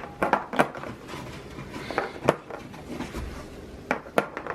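Household items being handled and set down on hard surfaces: a handful of separate knocks and clatters, a couple close together near the start, one about halfway through and two more near the end.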